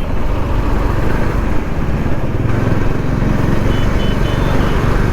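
Motorcycle engine running at a steady cruise, with wind and road noise on the rider's microphone.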